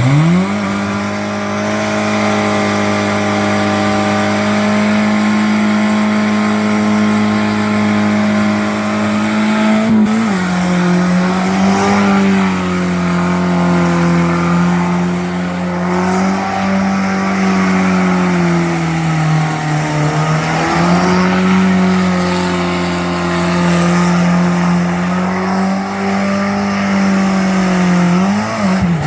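Suzuki Escudo's engine revving hard: it climbs sharply right at the start and is held at high revs for about ten seconds. Then it drops a little and rises and falls repeatedly, with a dip and a quick rise near the end.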